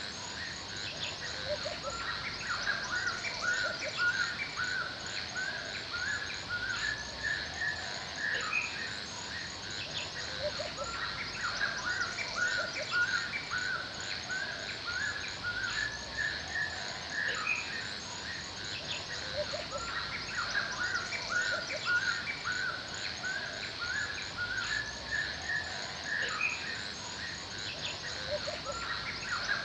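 Forest ambience: many songbirds chirping and calling in short, repeated notes over a steady high-pitched hum that is typical of insects.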